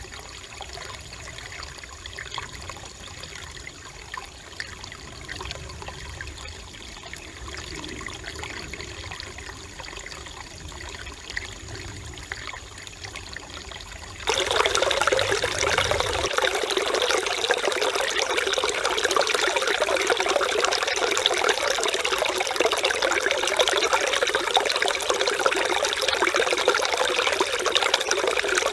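Mountain stream water running and babbling over rocks, a steady rushing trickle. About halfway through it jumps suddenly louder and fuller, as if heard from much closer to the water.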